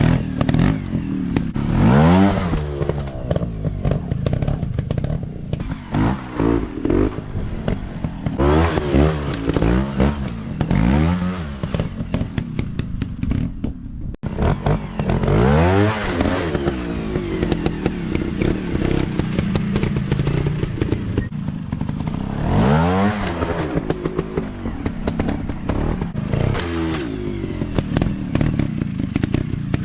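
Dirt bike engines revving hard and falling back again and again, as on an off-road track, with clattering and scraping mixed in.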